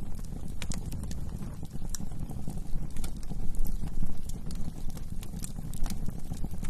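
Wood fire in a fireplace crackling: irregular sharp pops and snaps over a low steady rumble of burning.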